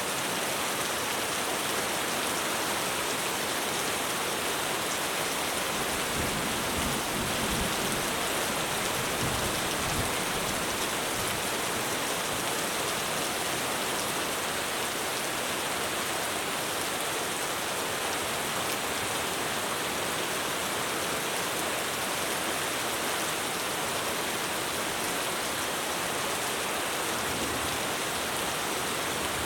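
Heavy rain pouring steadily on a roof, a dense, even hiss with no letup. A low rumble swells underneath it from about six to ten seconds in.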